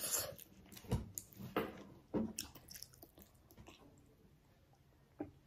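Mouth sounds of chewing chicken curry: wet smacks and clicks in the first two and a half seconds, then much quieter, with one sharp click near the end.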